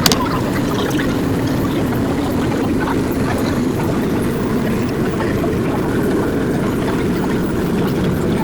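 Steady rumble and wheel noise of a 1904 Brooklyn Union gate car train running along the track, heard from aboard, with a sharp click right at the start and a few fainter clicks from the wheels.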